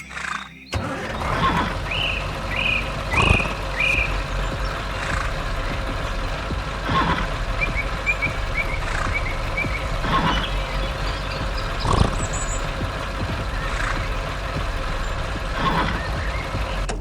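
A heavy truck's engine running steadily with a rumble and hiss, knocking every second or two. Short high chirps come twice: four of them early on and a quicker run in the middle.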